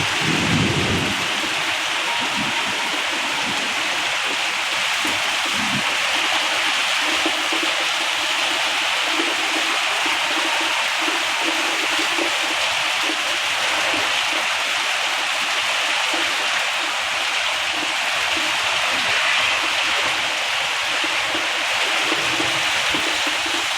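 Heavy tropical rain pouring down steadily in a thick, even hiss, with the tail of a low thunder rumble dying away about a second in.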